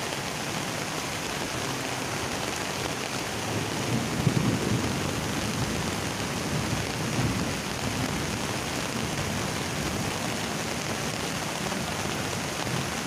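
Heavy rain falling in a steady hiss, with a swollen river in flood rushing beneath it; brief low rumbles swell about four and seven seconds in.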